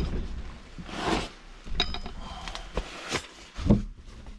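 Metal engine parts being handled during a strip-down: a sharp knock, then clinks and knocks, with a short metallic ring about two seconds in.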